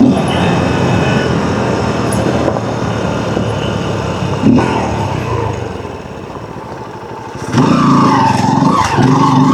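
Small dirt bike's engine running under way, easing off to a quieter, lower sound about six seconds in, then a louder engine sound with a steady pitch near the end.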